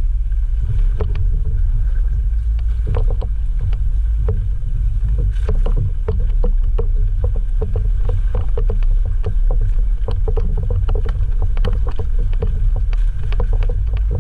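Jeep JL Rubicon on 37-inch tires driving over a rough, rocky trail: a steady low rumble with frequent short knocks and clatters, several a second through the middle, from the tires and suspension working over rocks.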